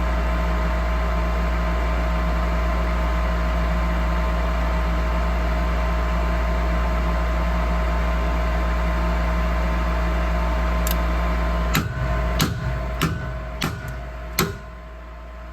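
Gas furnace running with a steady mechanical hum while its gas valve fails to open although it has voltage. Near the end, a screwdriver smacks the gas valve five times in quick succession, sharp metallic taps, and the hum then drops away.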